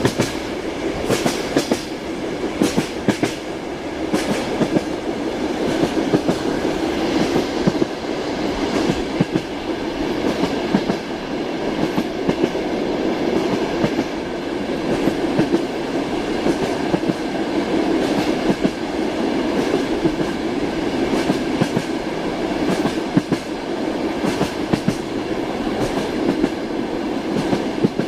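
Train wheels clattering over rail joints, heard from inside a moving passenger carriage: a steady rolling rumble with sharp knocks coming every second or two, often in pairs.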